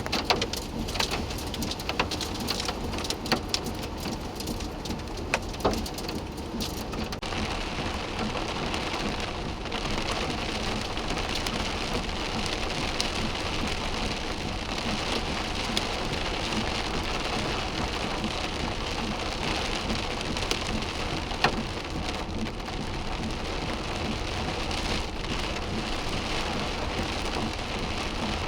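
Heavy rain pouring down. Sharp ticks of drops strike a nearby surface for the first several seconds, then from about seven seconds in the sound becomes a denser, steadier rush.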